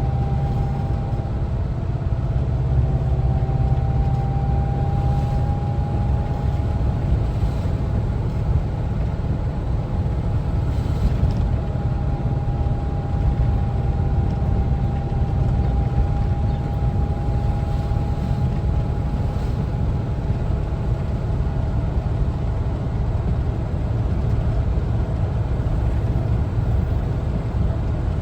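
A 1974 Volkswagen Westfalia camper's air-cooled engine and road noise while driving: a steady low rumble with a faint whine that drifts slightly in pitch.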